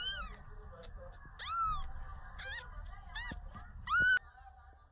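A one-week-old kitten mewing: about five short, high cries that each rise and fall in pitch, the loudest one near the end.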